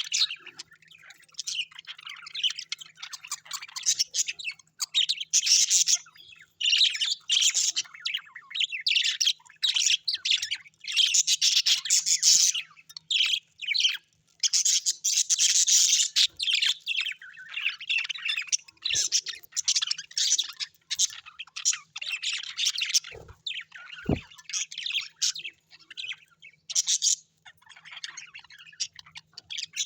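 A flock of small parrots chirping and chattering in rapid, continuous high-pitched bursts with brief pauses. Two short low thuds come about three quarters of the way through.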